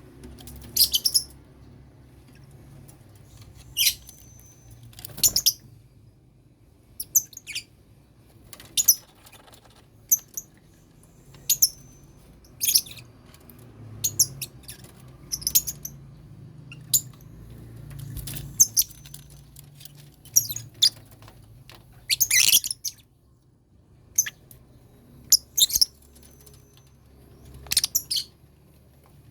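Lovebirds in a colony cage giving short, sharp high chirps at irregular intervals, about one every second or two, over a faint low rumble.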